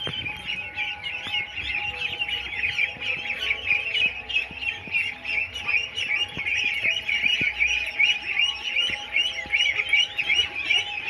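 A flock of 24-day-old ducklings peeping, many short high chirps overlapping without pause.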